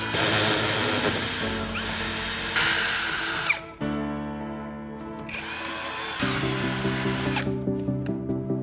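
Power drill running in two bursts, the first about three and a half seconds long and stopping abruptly, the second about two seconds long after a short pause, over background music.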